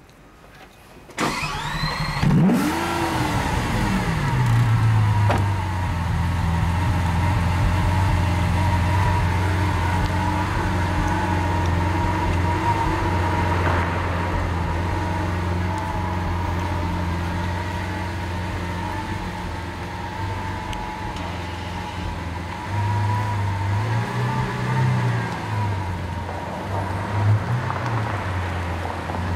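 Lamborghini Aventador LP700-4's 6.5-litre V12 starting about a second in, loud: a sharp flare of revs that falls back to a steady idle. Near the end the revs rise and dip a few times as the car pulls away.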